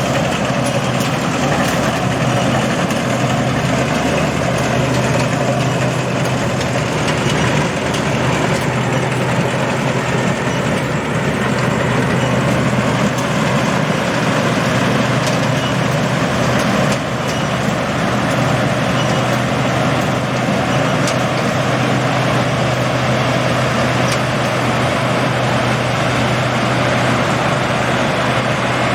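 Combine harvester running steadily, a constant engine hum under a dense mechanical clatter.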